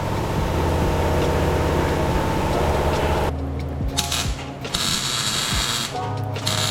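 Hand ratchet wrench clicking as bolts on the car's exhaust are turned.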